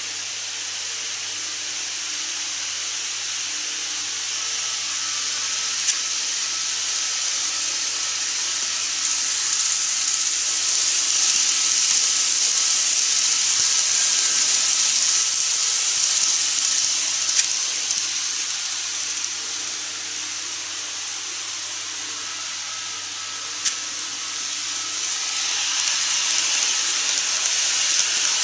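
Model train running on the track: a steady hissing rumble that grows louder and fades, then rises again near the end, as a train passes close. A few sharp clicks stand out.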